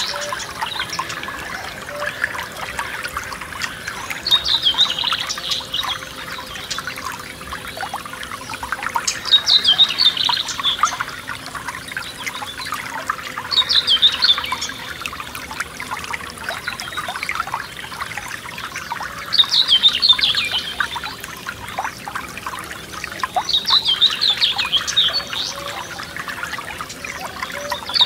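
Forest stream trickling and splashing over stones in a steady babble, while a songbird repeats a short song phrase about every five seconds.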